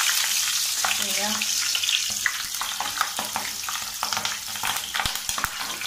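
Whole green chillies sizzling in hot oil in an iron kadhai, the oil spitting with many small crackling pops, while a perforated steel ladle stirs them, knocking against the pan a couple of times about five seconds in.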